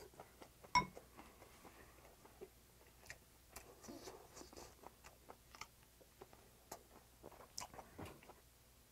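Close-miked chewing and small mouth sounds of someone eating seasoned cockles and rice, with scattered light clicks of wooden chopsticks on ceramic plates. One sharper click, the loudest, comes about a second in.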